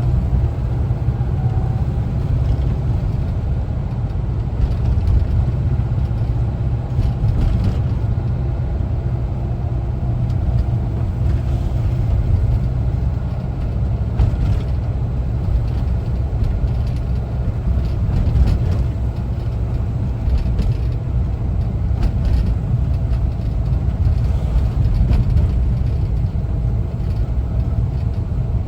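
1974 Volkswagen Westfalia camper's air-cooled flat-four engine and road noise while driving: a steady low rumble with a few light clicks.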